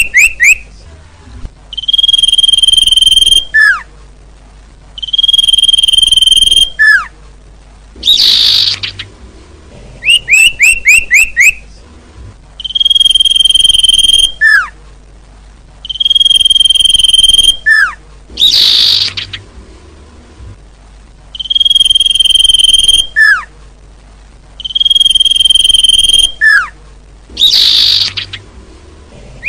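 Looped bird-lure recording of small songbird calls, repeating in a cycle about every ten seconds. Each cycle holds a quick run of falling chirps, long steady whistled notes, a short falling note, and a harsh buzzy call.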